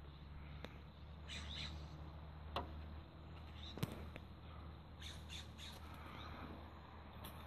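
Wild birds give short, high squawking calls in small bunches, about a second in, around five seconds in, and near the end. Two sharp clicks stand out between them, over a steady low rumble.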